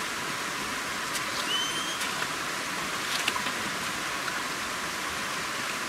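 Steady hissing background noise with a few faint clicks and a short rising chirp about one and a half seconds in.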